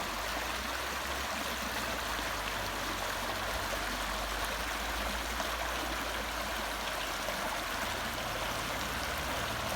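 Small brook babbling steadily.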